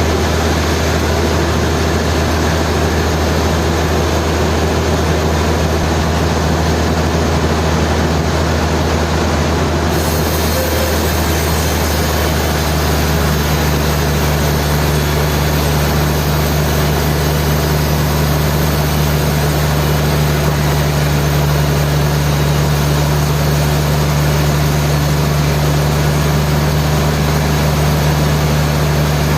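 Sawmill machinery running with a loud, steady low drone and a broad mechanical noise over it. About ten seconds in, the sound turns brighter and a higher hum grows stronger.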